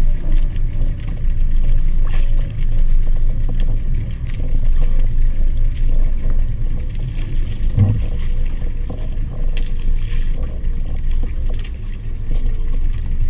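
Steady low rumble aboard a small fishing boat at sea, with scattered light clicks and taps and one duller knock about eight seconds in.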